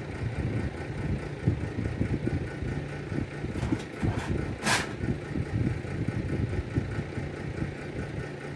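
A steady, fluttering low rumble like an idling engine, with a few short clicks and one brief, sharper noise just past the middle.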